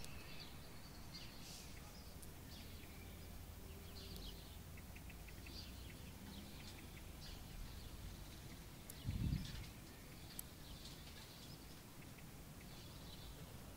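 Faint, scattered bird chirps over a low steady hum, with one soft low thump about nine seconds in.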